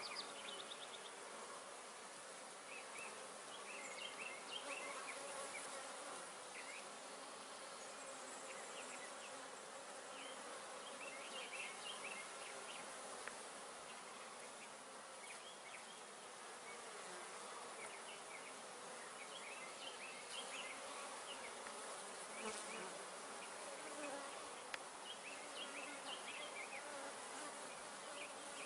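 Honey bees buzzing at a hive: a steady hum of many bees in a busy colony, with faint short high chirps scattered throughout.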